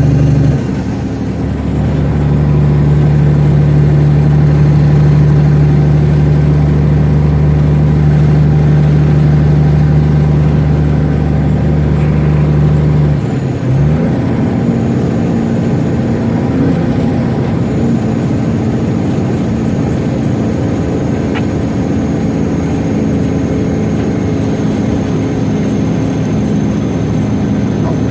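Semi truck's diesel engine running with a steady low drone, its note breaking off and shifting to a different, lighter steady note about thirteen seconds in.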